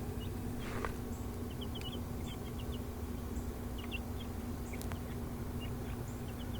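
Baby chicks peeping: short, high chirps scattered throughout, over a steady low hum.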